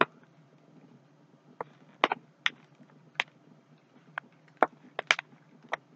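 A person chewing a bite of chocolate-covered donut, with about ten sharp, irregularly spaced wet mouth clicks.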